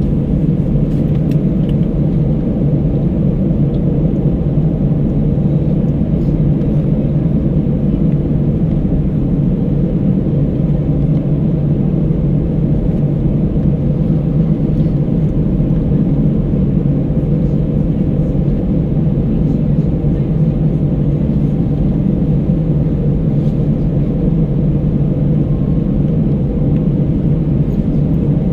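Steady low cabin drone of an Airbus A319 airliner in flight, heard from a window seat inside the cabin: engine and airflow noise, unchanging and strongest in the low range.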